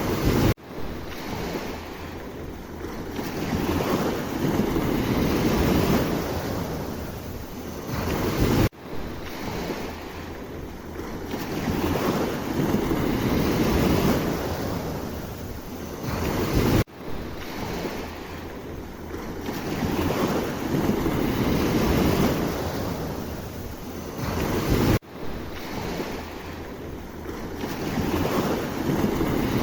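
Sea waves surging and washing in, swelling and fading, with wind noise on the microphone. The sound drops out sharply for an instant about every eight seconds, where the recording loops.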